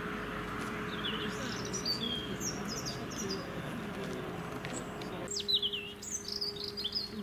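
Small songbirds singing: a string of short, high chirps and quick falling whistles, busier in the last couple of seconds.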